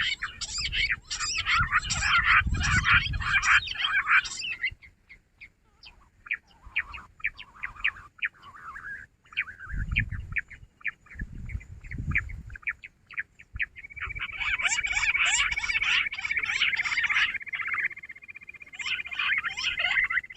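Jungle bush quail calling in a chorus of rapid, high chirping notes. The calls are dense for the first few seconds, thin out to scattered chirps in the middle, and crowd together again in the last third over a steady high tone. A few low thuds sound under the calls.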